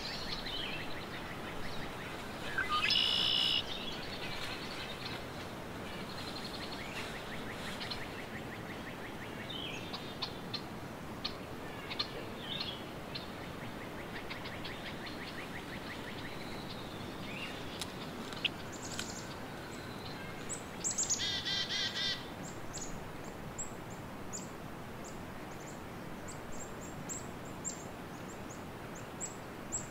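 Woodland birds singing and calling over a steady background hiss: a loud trilled phrase about three seconds in, another trill about two-thirds of the way through, and many short high chirps near the end.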